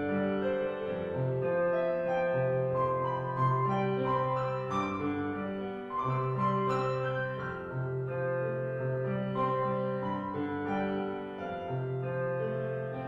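Piano music with long held notes and chords.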